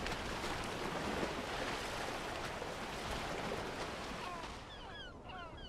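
Steady rush of wind and surf along a shore, easing off after about four seconds, as birds start calling near the end with short, falling cries in quick succession.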